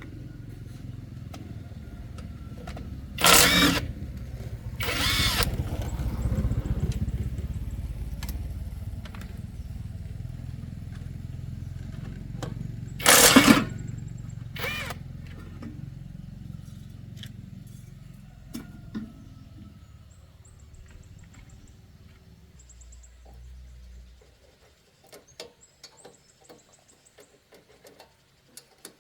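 An engine running with a steady low rumble, with a few loud sudden bursts over it; the rumble dies away a little after twenty seconds in, leaving faint clicks.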